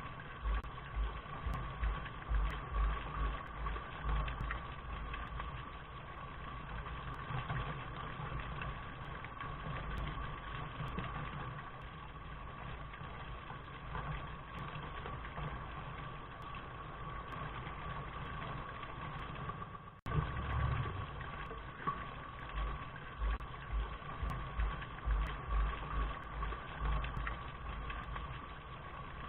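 Steady rain: an even hiss with an irregular low rumble underneath. The sound drops out for an instant about twenty seconds in.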